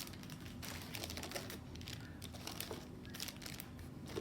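Packaging being handled, crinkling and rustling in irregular crackles and small clicks.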